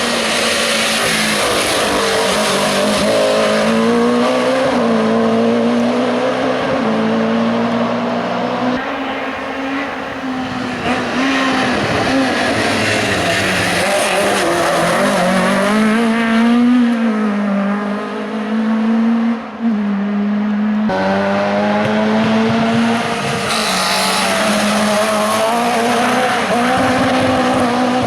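Hill-climb race car engines running hard, the engine note dipping and climbing again as the cars brake and accelerate up the course. Near 9 s and again near 21 s the sound changes abruptly.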